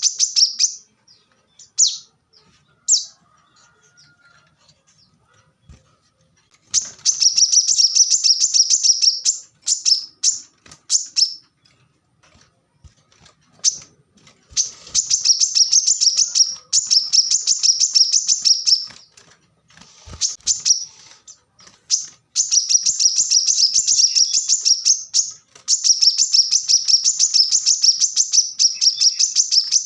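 Brown-throated sunbird (kolibri kelapa) singing in long, fast, high-pitched chattering runs of rapidly repeated notes, each run lasting several seconds with short pauses between.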